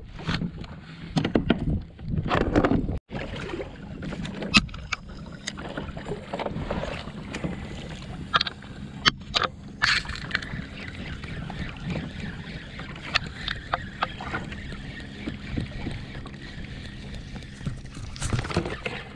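Handling noise aboard a fishing kayak on the water: scattered sharp clicks and knocks of gear against the hull over a low, steady background of water and wind.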